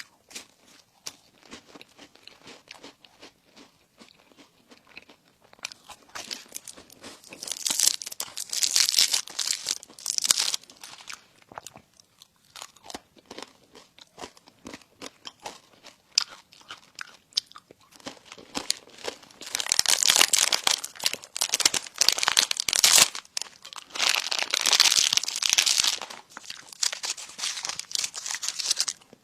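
Close-up eating sounds: crunchy bites and chewing of crispy baked food, with three louder spells of crunching, two of them close together in the second half.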